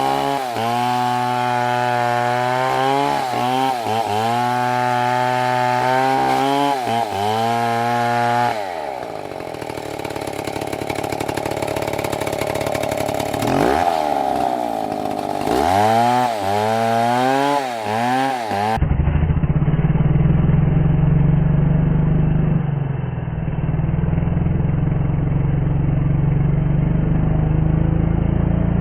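Chainsaw running under load, its engine pitch dipping and recovering again and again as it cuts into the wood. About two-thirds of the way through, the sound switches abruptly to a duller, low engine rumble.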